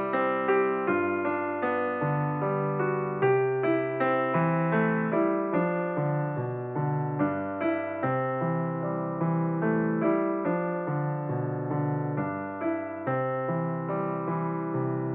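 Background music: a solo piano or electric piano playing a steady run of notes, several to a second.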